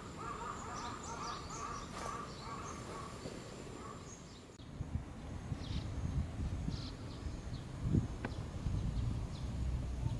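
A bird chattering in a fast run of short repeated notes for the first four seconds or so. After that come low rumbling noise and a few faint clicks.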